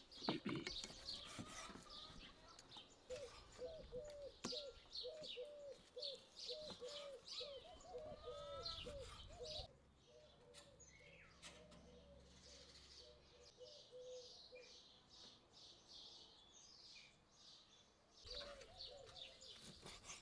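Birds chirping and twittering throughout, faint. From about three seconds in until past the middle, a bird repeats a short, lower call about twice a second.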